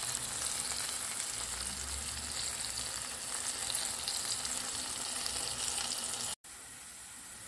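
Flour-dredged chicken liver pieces sizzling steadily in hot oil in a frying pan. About six seconds in the sound cuts out for an instant, and a quieter sizzle follows.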